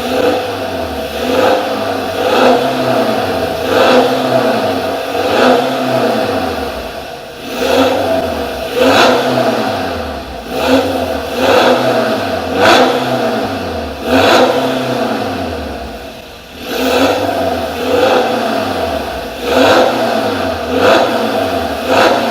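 BMW F30 320d's four-cylinder turbodiesel revved repeatedly through an aftermarket valved exhaust: short throttle blips about once every second or so, each rising and falling back, with a longer dip back toward idle about two-thirds of the way through.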